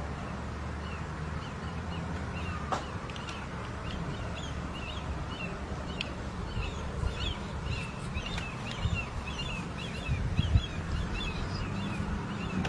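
Small birds chirping: many short, quick chirps in rapid runs, growing busier toward the end, over a steady low rumble.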